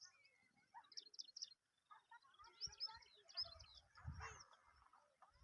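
Several birds chirping and whistling, faint, with many short overlapping calls. A low rumble comes in about three and a half seconds in and lasts about a second.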